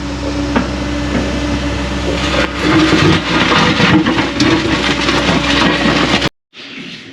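Excavator engine running steadily, with scraping and clattering from about two and a half seconds in as the machine digs. It cuts off abruptly about six seconds in.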